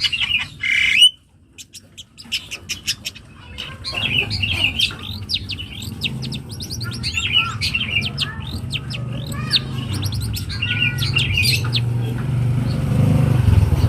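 Young long-tailed shrike singing: rapid chattering phrases of varied sweeping notes. A low motor hum grows in underneath and is loudest near the end.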